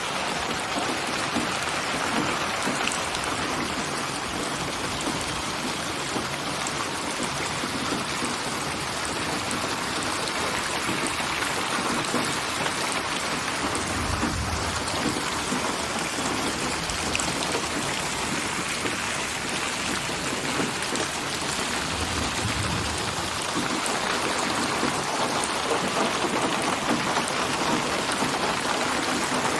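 Steady rain: a synthesised rain ambience built from many rain recordings and panned around the listener in 3D (8D/HRTF) audio. Twice, about halfway through and again about three-quarters through, a short low rumble rises under the rain hiss.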